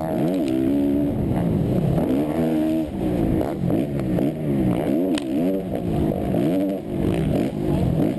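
Motocross bike engine heard from a camera mounted on the bike, revving up and dropping back again and again as the throttle is opened and closed around the track, with a few sharp knocks.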